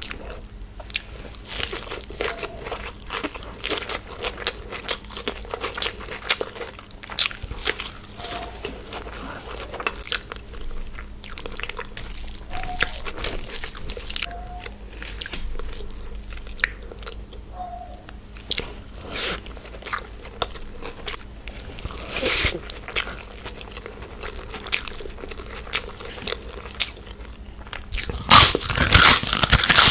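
Close-miked eating: crunchy bites and chewing, a run of short crackling clicks, louder and denser near the end.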